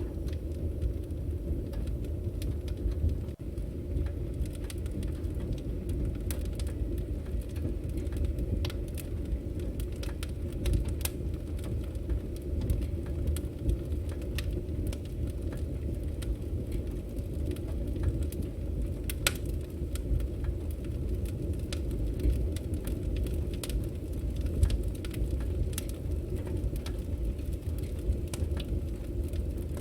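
Wood fire burning: a steady low rumble of flames with scattered crackles and pops from the burning logs, a couple of sharper pops in the second half.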